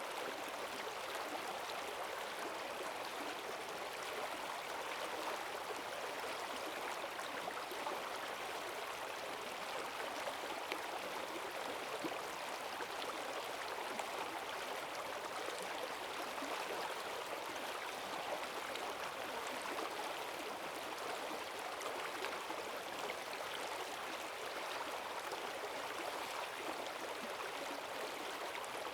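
Forest stream running high and fast after heavy rain, a steady rush of water with fine splashing and gurgling.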